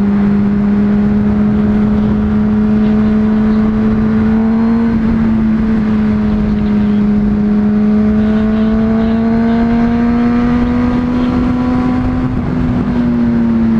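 Honda CBR600RR's inline-four engine running at steady riding revs under a rush of wind noise. The pitch climbs slowly, dips briefly about five seconds in, climbs again and eases off near the end.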